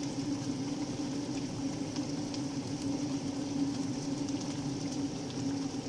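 A steady mechanical hum from a running motor, holding one low drone throughout. It cuts off abruptly at the end.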